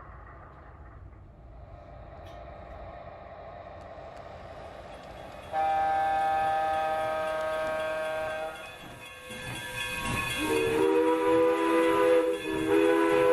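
Sound system of an O gauge model SW1200 diesel switcher: a steady engine rumble, then a horn blast about five seconds in that holds for about three seconds. Near the end a lower three-note horn chord sounds twice over a louder engine rumble.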